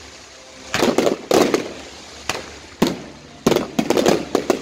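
Fireworks going off in groups of sharp bangs and crackles: a cluster about a second in, single bangs around two and three seconds, then a quick run of bangs near the end.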